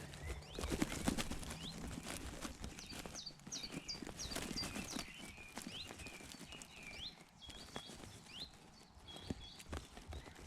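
Small songbirds singing in repeated short, high notes, most often around three to five seconds in, over scattered rustles and knocks from close handling in the hedge.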